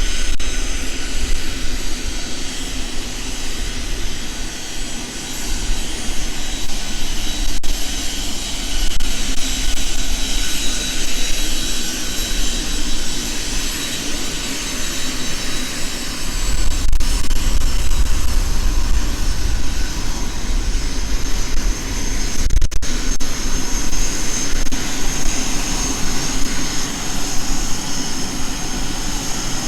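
A large aircraft's engines running as it comes in: a steady high whine over a heavy low rumble, growing louder partway through with the whine sharpening near the end.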